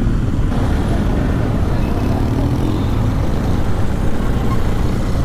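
Motorcycle engine running steadily under way, with wind rushing over the microphone and the hum of surrounding traffic; a faint rise in engine pitch a couple of seconds in.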